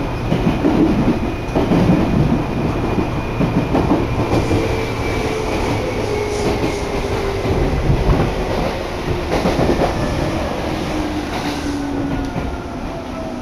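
Electric commuter train heard from inside the car: wheels clacking over rail joints under a rumbling ride, with the traction motor whine falling slowly in pitch as the train slows for a station. The running noise eases off near the end.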